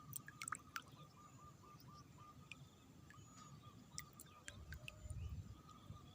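Near silence with a faint bird chirping a quick series of short, repeated notes, scattered small clicks, and a brief low rumble about five seconds in.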